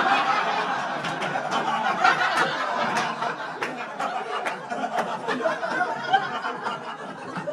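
Live comedy-club audience laughing and applauding, with a crowd roar and scattered hand claps that slowly die down.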